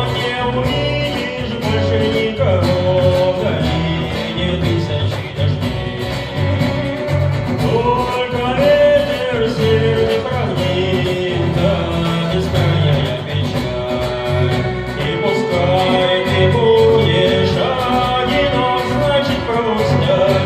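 Live music: a song played on acoustic guitar with a singing voice.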